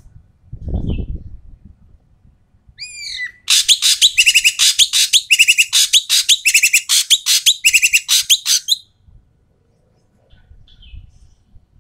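Ekek keling bird giving a long, loud, harsh chattering call: a few sweeping notes, then a rapid run of rasping notes lasting about five seconds. A dull low thump comes about a second in.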